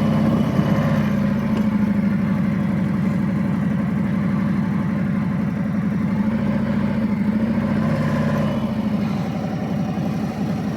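Harley-Davidson Road Glide V-twin engine idling steadily just after start-up, with a fast, even pulsing beat.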